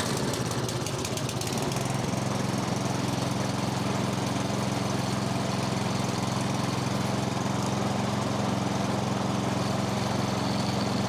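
Single-cylinder snowblower engine running right after being started, unsettled for the first couple of seconds, then holding a steady, even speed. It runs smoothly now that a clogged carburetor pilot jet has been reamed out.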